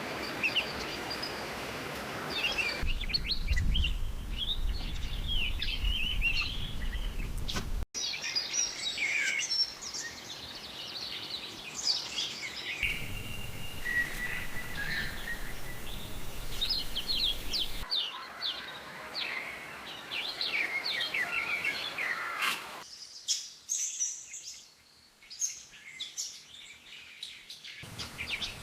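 Wild birds chirping and calling, many short high chirps and trills. The backdrop changes abruptly every few seconds as separate recordings are cut together.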